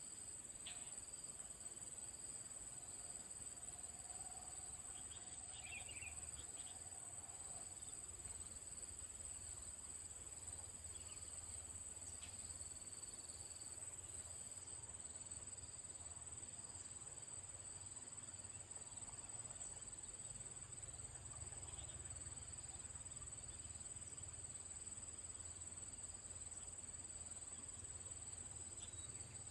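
Faint, steady insect chorus, likely crickets, made of several continuous high-pitched tones, over a low rumble. A few faint short chirps come about five to six seconds in.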